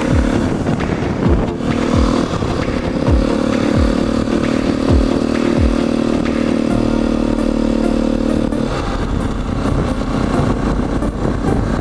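Motorcycle engine running at a steady road speed, heard from the moving bike over rushing wind. The engine's steady note drops away about three quarters of the way through.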